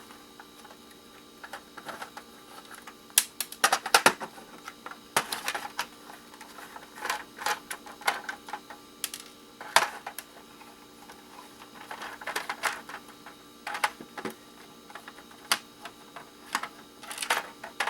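Irregular clicks and clacks of a cheap plastic game console casing being taken apart by hand with tools. They come in scattered taps, with denser clusters about three to four seconds in and again near the end.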